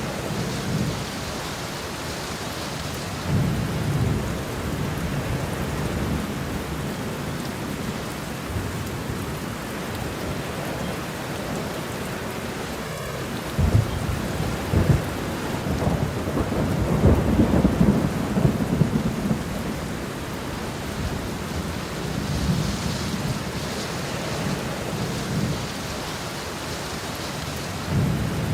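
Steady rain with thunder rumbling. A short rumble comes a few seconds in, and a longer, louder roll of thunder builds about halfway through and lasts several seconds.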